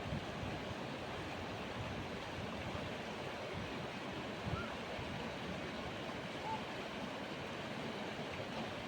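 Steady rush of whitewater on a fast mountain river, an even noise with a couple of faint short sounds over it about halfway through.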